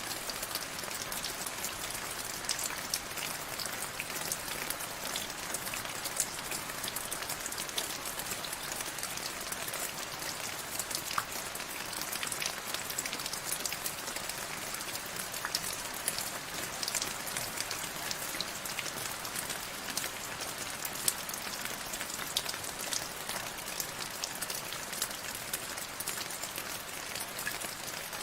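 Steady rain falling, an even hiss dotted throughout with many sharp ticks of single drops striking close by.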